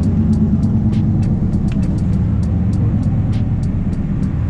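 Car engine idling steadily with a deep, even hum, with faint light ticks over it.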